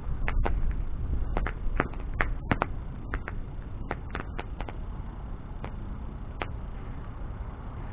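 Wood bonfire burning: a steady low rush of flame with irregular sharp crackles and pops from the burning wood, busiest in the first few seconds and sparser after.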